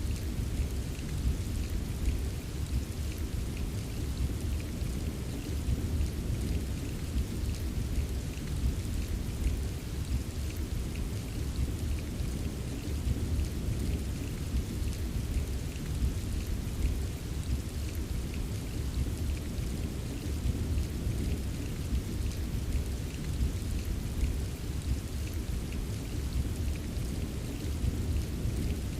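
Steady rain ambience: an even wash of rain with a deep low end and fine, scattered drop patter on top, with no breaks or single loud events.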